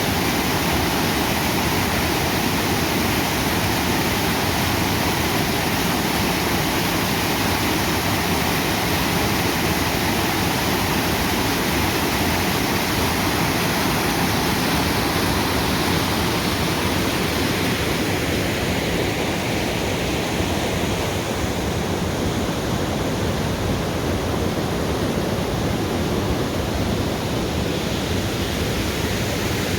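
Waterfall pouring: a steady, full rush of falling water that thins a little in the high hiss about twenty seconds in.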